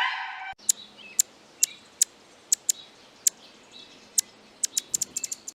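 Short, sharp bird chirps, about fifteen of them, starting about half a second in, spaced irregularly and coming quicker near the end, over a faint steady hiss.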